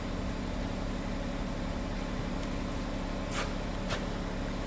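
Volkswagen Touareg V6 TDI diesel engine idling steadily, running again after its no-start fuel rail pressure fault was repaired. Two faint clicks sound late on.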